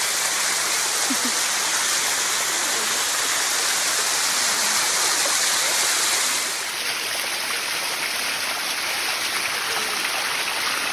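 Water of the Bua Tong Sticky Waterfall rushing steadily down the rock. It drops slightly in level a little past halfway through.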